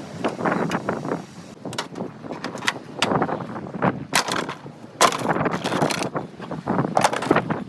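Irregular knocks, clicks and clatter of hand work on a car being dismantled, with no steady motor running.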